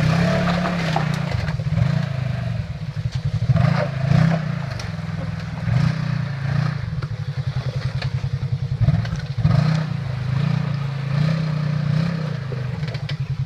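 Polaris RZR XP 4 900 side-by-side's parallel-twin engine running hard, revving up in repeated surges and dropping back between them during a climb, with occasional knocks and scrapes.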